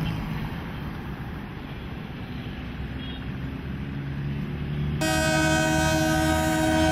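Commuter train running on the rails, its rumble growing louder as it approaches; about five seconds in a train horn starts and holds steadily.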